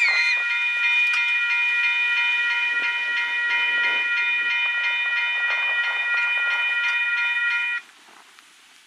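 Union Pacific freight locomotive's air horn sounding one long, steady chord of several notes, then cutting off suddenly near the end.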